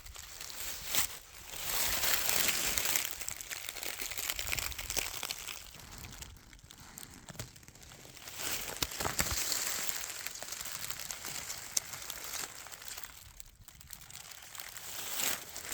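Footsteps crunching and rustling through dry forest leaf litter and undergrowth, in uneven swells with small snapping clicks.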